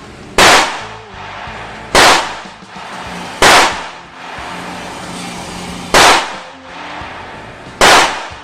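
Five gunshots, sharp loud bangs about one and a half to two seconds apart, each ringing out briefly after the crack.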